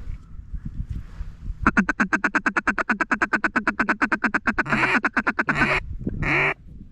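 Mallard duck call blown by a hunter: a rapid feed chatter of about eleven clucks a second for some three seconds, then a couple of longer quacks, the last one cut off short.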